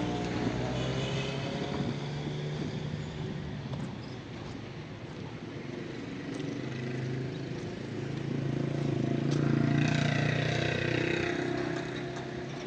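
Motor vehicles passing on a street: one engine is loud at the start and fades away within a few seconds. A second builds up, is loudest about two-thirds of the way in, then fades as it passes.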